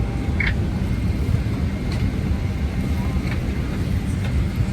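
Steady low rumble inside a Boeing 767-300's passenger cabin, with a few faint clicks over it.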